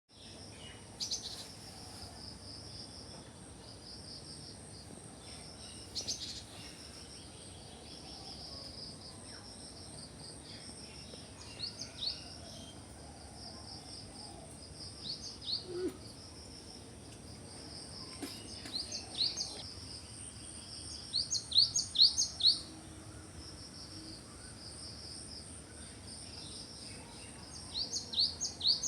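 Birds calling in short bursts of quick falling chirps, a few notes at a time and loudest about three-quarters of the way through, over a steady high-pitched trill of crickets or other insects.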